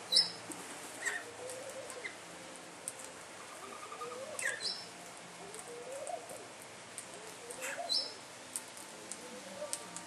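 Birds calling at a backyard seed feeder: three short, sharp high calls about four seconds apart, with softer, lower rising calls and faint ticks between them.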